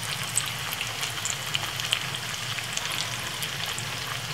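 Ripe plantain slices frying in shallow oil in a frying pan: a steady sizzle with frequent small crackles and pops.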